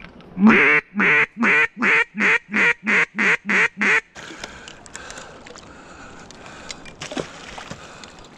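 A run of about ten loud duck quacks, about three a second, the first one drawn out and the loudest, the rest short and even, in the cadence of a mallard hen's call.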